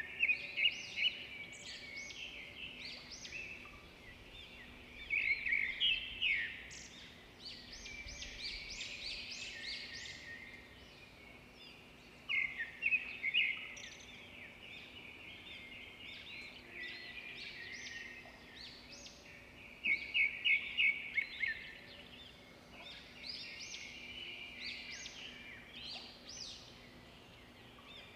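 Birds chirping and twittering, with a louder burst of rapid chirps about every seven to eight seconds and softer twittering between, over a faint steady low hum.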